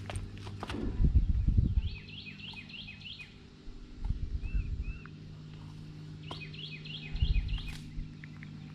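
A songbird singing two quick phrases of repeated down-slurred whistled notes, about a second each, with a short two-note call between them. A steady low hum and a few dull handling thumps sit underneath.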